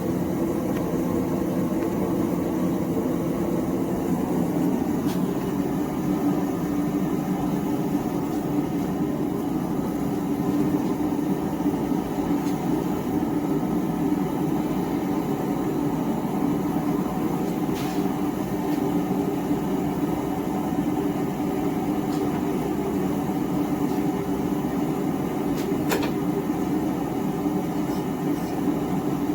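Small gas forge burner running steadily, an even rushing noise that does not change, with a few faint ticks along the way.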